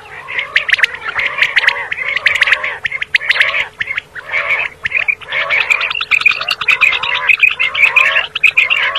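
Common quail calling in a dense, continuous run of short, rapid notes and clicks.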